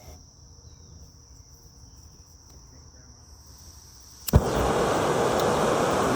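Faint cricket-like chirring, then about four seconds in a sharp click as a camp stove is lit, and the burner starts up with a loud, steady hiss.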